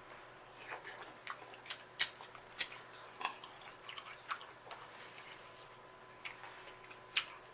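Close-miked chewing of seafood boil: irregular wet mouth clicks and smacks, one or two a second, the loudest about two seconds in.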